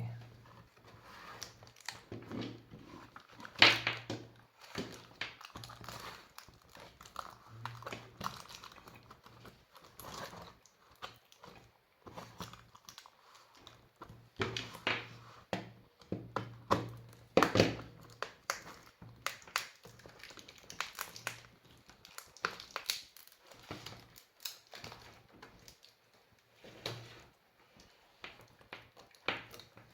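Irregular clicks, knocks and plastic crinkling from an electric scooter's lithium battery pack being handled, with a sharper knock about four seconds in and another near the middle. A low hum comes and goes underneath.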